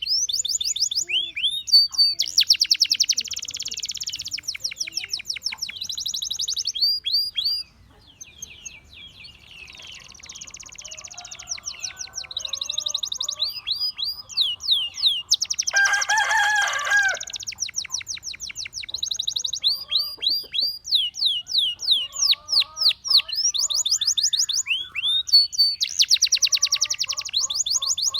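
Gloster canary singing a long, loud song of rapidly repeated sweeping notes and fast trills. The song drops off briefly about eight seconds in.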